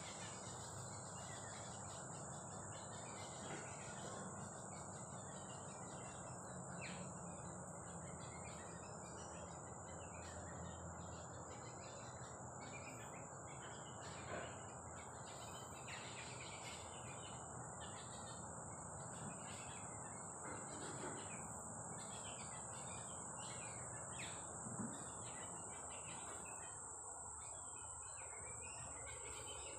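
Soft rain falling steadily, with many short bird chirps and calls over it and a constant high-pitched insect drone.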